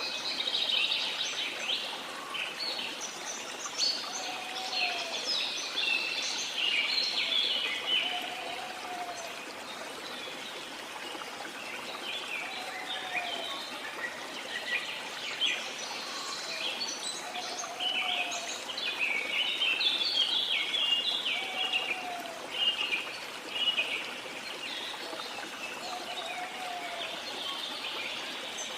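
Rainforest ambience: a steady hiss of falling water under many birds chirping in dense bursts, with a short, low call repeated about every four seconds.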